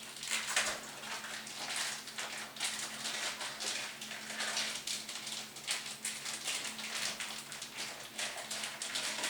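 Plastic wrapping rustling and crinkling in irregular surges as it is handled.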